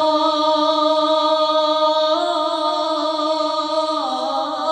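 A voice singing an Urdu naat, drawing out one long held note that shifts pitch about two seconds in and steps down again near the end.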